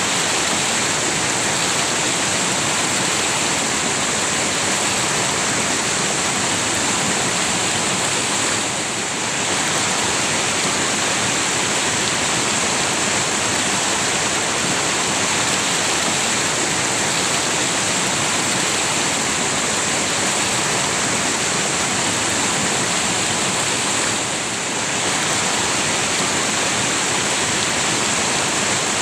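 River water rushing steadily, with the volume dipping slightly for a moment twice, about 9 seconds and 24 seconds in.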